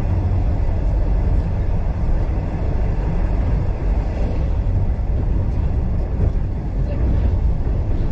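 Steady low noise of a train running along the track, heard from inside a passenger carriage of a steam-hauled excursion train.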